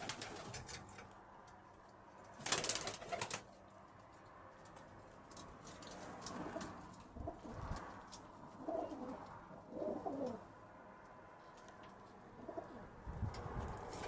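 Domestic pigeons cooing several times, low and wavering, with a short loud rustle about two and a half seconds in.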